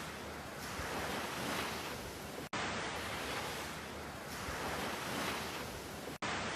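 Ocean surf: a steady rush of waves that swells and eases gently. It is broken by two very brief dropouts where the audio cuts out, one about two and a half seconds in and one near the end.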